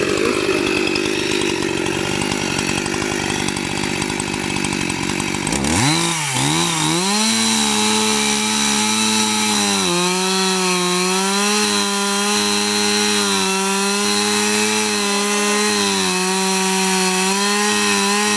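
Two-stroke chainsaw running under load, with a rough, noisy sound as it cuts wood. About six seconds in, its pitch dips and then climbs to a steady high whine at full throttle. It winds down right at the end.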